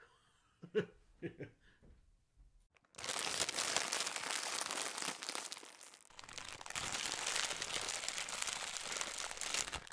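Outro sound effect: a dense crackling, static-like noise that starts abruptly about three seconds in, dips briefly around the middle, then carries on and cuts off sharply near the end. Before it, a few faint words.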